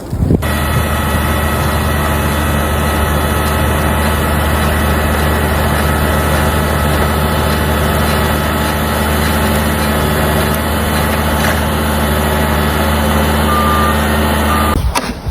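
An engine running steadily at a constant speed, like a heavy vehicle idling. It starts suddenly about half a second in and cuts off near the end.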